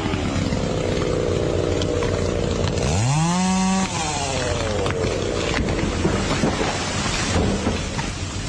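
Chainsaw running and cutting, its engine revving up steeply about three seconds in and dropping back.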